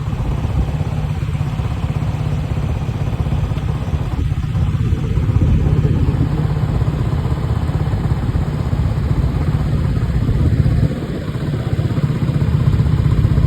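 Vehicle engine running with road rumble while on the move; the rumble drops briefly about eleven seconds in, then picks up again.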